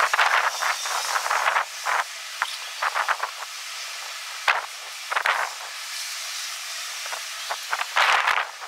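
Strong gusty wind: irregular surges of rushing, hissing noise that rise and fall every second or so over a steady hiss.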